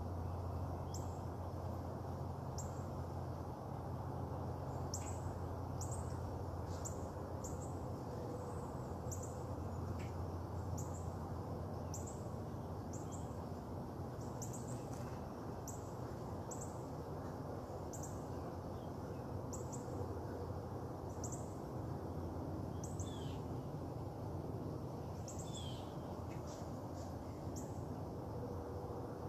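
Short, high bird chirps repeating about once or twice a second over a steady background hiss. A low hum underneath fades out about halfway through.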